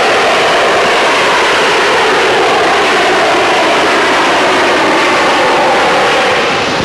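Jet aircraft engine noise: a loud, steady rush with a faint whine in it, easing slightly near the end.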